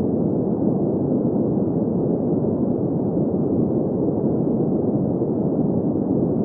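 Steady green noise: an even, unchanging hiss centred in the low middle range, with no high end.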